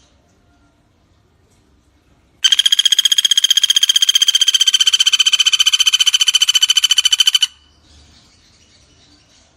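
Pelatuk bawang woodpecker giving one long, rapid rattling trill of about five seconds, starting a couple of seconds in and stopping abruptly, its pitch falling slightly. Faint insects chirp in the background.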